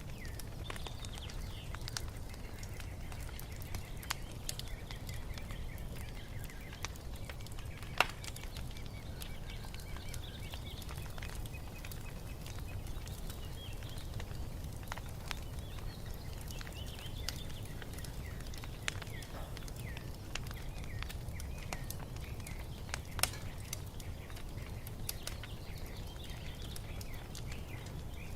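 Wood fire crackling in a fireplace: scattered pops and snaps over a low steady rumble, with two louder sharp pops, one about eight seconds in and one near the end. Birds chirp and twitter faintly in the background.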